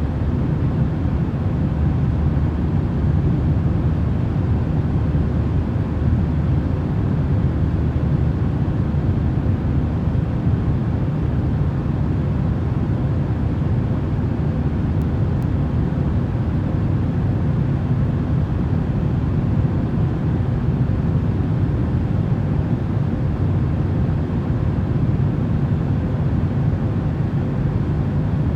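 Steady, low, rumbling white noise played for sleep, unchanging throughout, with a faint steady hum in it.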